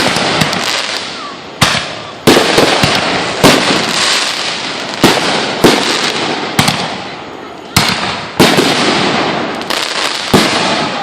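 Fireworks going off: about ten sharp bangs, roughly one a second, each followed by a dense crackle that fades away.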